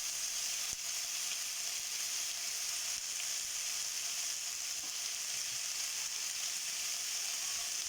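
Broiler chicken frying in oil in a pan with onion and ginger-garlic paste, a steady hissing sizzle, with one faint tap under a second in.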